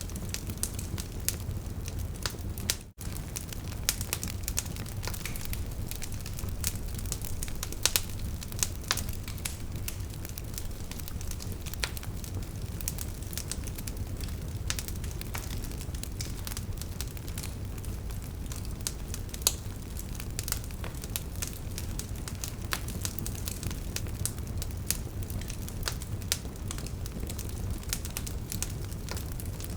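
Burning wood logs crackling and popping, with sharp snaps scattered over a steady low rumble of the flames. The sound cuts out for an instant about three seconds in.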